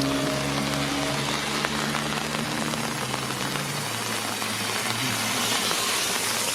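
Steady rain falling on the road, with a vehicle engine running nearby in the first few seconds; its hum drops and fades about four seconds in.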